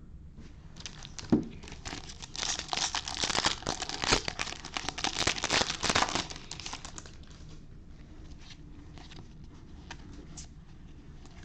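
A baseball card pack's wrapper being torn open and crinkled, with a sharp snap about a second in, then about six seconds of dense crinkling. Fainter handling ticks follow.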